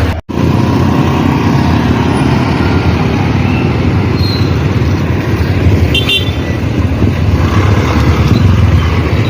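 Steady street traffic noise, cars and motorcycles passing close by, a continuous low rumble.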